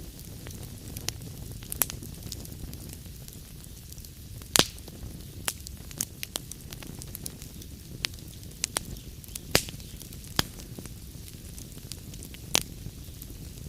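Log fire in a fireplace crackling, with scattered sharp pops over a steady low rumble and hiss. The loudest pop comes about a third of the way in, with several more in the second half.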